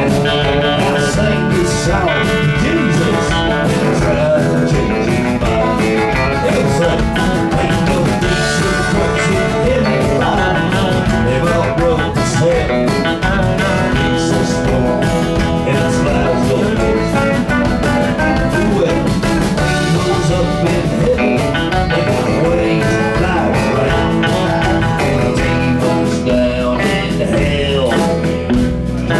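Live country band playing the song loudly and steadily, guitars to the fore over a driving beat.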